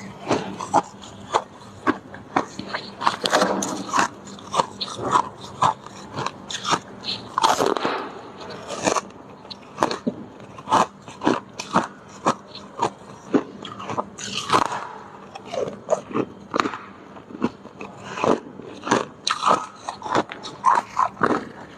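Freezer icicles being bitten and chewed: a steady run of sharp, irregular crunches and cracks, several a second.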